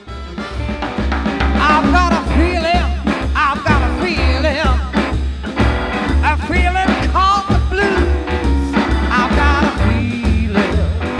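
Blues-rock band recording: drums and a steady pulsing bass line under a lead melody full of bending, wavering notes.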